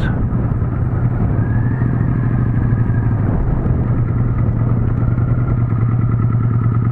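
Motorcycle engine running steadily at low revs, a constant low throb.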